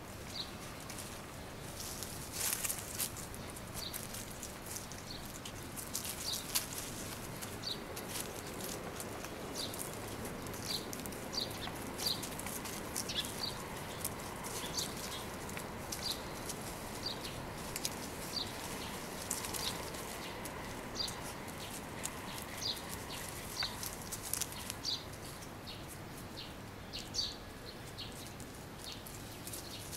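A small bird chirping over and over, short high chirps about once a second, with scattered light rustles and clicks.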